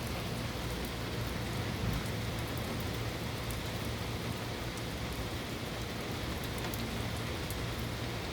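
Steady rain falling, with scattered sharp drop ticks and a low steady hum underneath.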